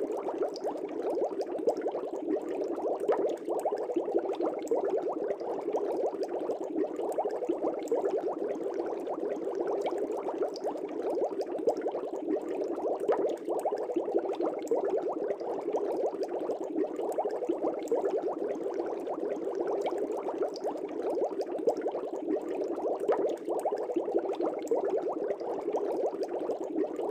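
Aquarium air bubbles rising and breaking at the water surface in a fish tank: a steady, dense bubbling with fine crackle.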